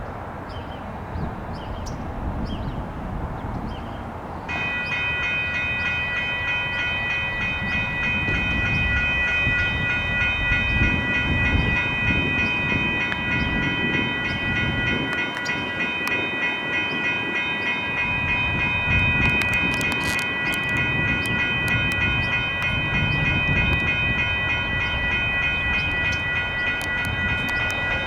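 Railroad crossing electronic bells, a WCH Type 1.5 and a GS Type 1 e-bell, start ringing about four seconds in and keep ringing steadily: the crossing has activated for an approaching train. A low rumble runs underneath.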